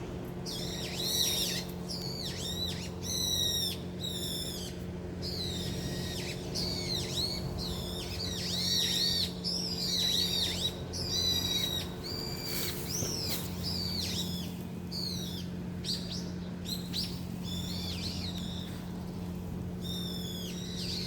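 Many small birds chirping and calling over one another in a bamboo grove, quick high chirps and short sliding notes in constant overlapping bursts. A steady low hum runs underneath.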